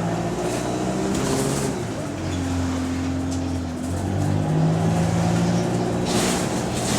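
Bus diesel engine heard on board, pulling under load, its revs climbing and dropping back twice as it changes gear. The engine has a leaking exhaust. A rushing noise joins near the end.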